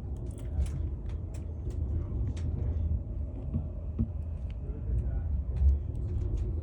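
Steady low rumble of a moving passenger train heard from inside the carriage, with scattered light clicks and rattles.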